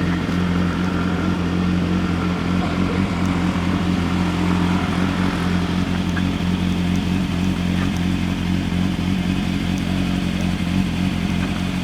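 An engine running steadily at a constant speed, an even low hum that neither rises nor falls.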